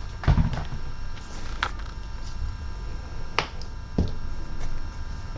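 A few light, sharp clicks and taps from small objects being handled, over a faint steady hum.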